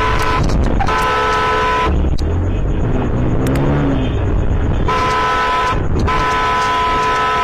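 A vehicle horn honking in long held blasts over steady road and engine noise. The horn breaks off for about three seconds in the middle, then sounds twice more.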